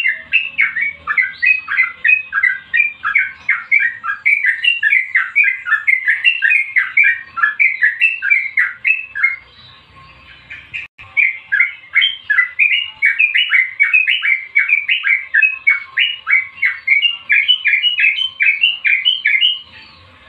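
A songbird calling a long run of short, repeated notes, about three a second. It stops for about two seconds around ten seconds in, then starts again.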